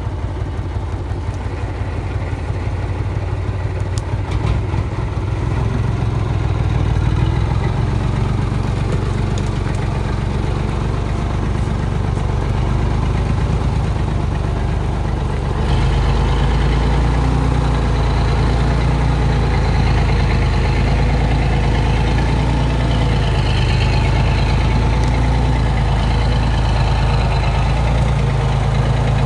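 Heavy timber truck's diesel engine running steadily. It gets louder about five seconds in, and louder again about halfway through.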